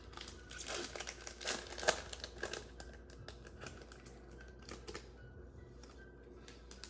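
Trading card pack wrapper crinkling and cards being handled: a run of small crinkles and clicks over the first three seconds, then only faint rustling.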